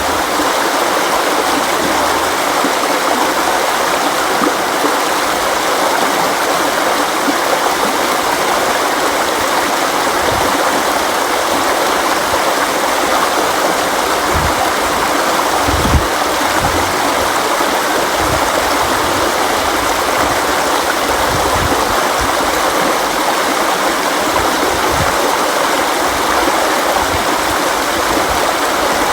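River water flowing steadily over rocks, a dense rushing with occasional low gurgles.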